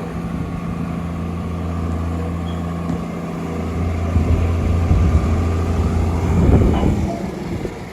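Old John Deere diesel tractor engine running steadily as the heavy tractor drives across the ground, growing louder as it comes close and then falling away near the end.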